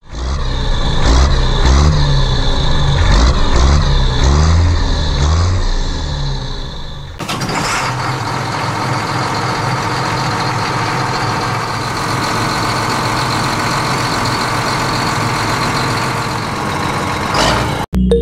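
Heavy vehicle engine sound, like a truck or tractor, with the engine note rising and falling for about seven seconds, then changing abruptly to a steadier, noisier running sound that cuts off just before the end.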